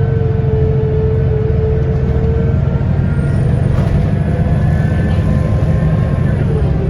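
Scania L94UB bus's diesel engine and ZF automatic driveline running under way, a steady low rumble. A steady whine sits over the engine and fades out about two and a half seconds in.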